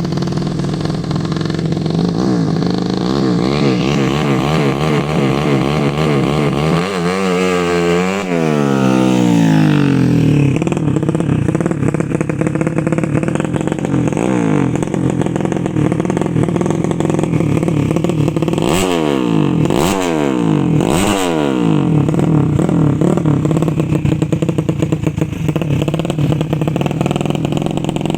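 115 cc underbone racing motorcycle engine being revved while stationary: a steady run with quick wobbling throttle pumps, a long rise and fall in revs about a third of the way in, and three sharp blips in quick succession near two-thirds through, each falling back.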